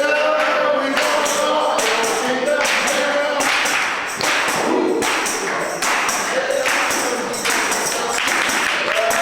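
Gospel singing with sustained voices over a steady percussive beat, struck about every three-quarters of a second.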